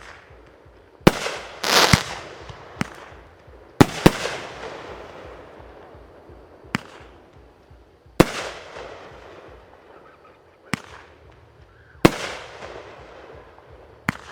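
Fireworks shells bursting: a string of about ten sharp bangs a second or two apart, each trailing off in a fading echo, with a crackling burst about two seconds in.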